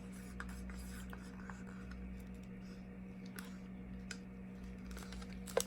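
Quiet handling noises while acrylic paint is poured: faint light taps and scrapes, with one sharper click near the end, over a steady low electrical hum.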